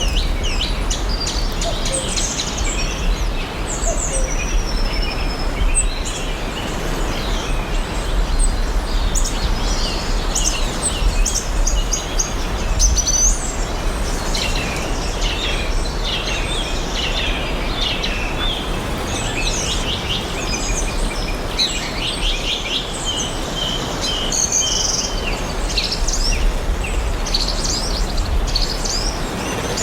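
Several forest birds chirping and singing, many short chirps and quick trills overlapping, over a steady background hiss with a low rumble.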